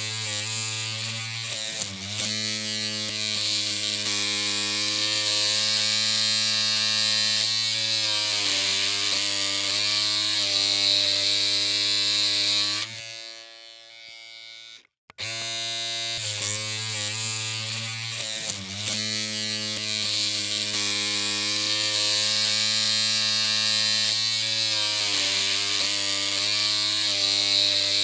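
Electric hair clippers running with a steady buzzing hum, the pitch sagging slightly now and then. About halfway through it cuts out for roughly two seconds, then starts up again.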